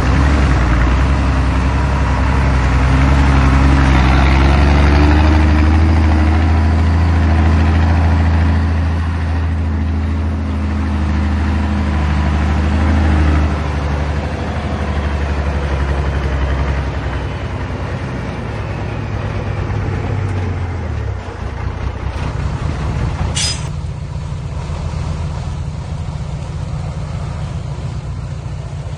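Heavy diesel dump truck engine running hard and loud, then easing back about 13 seconds in and settling to a steady idle. A short, sharp hiss of air about 23 seconds in.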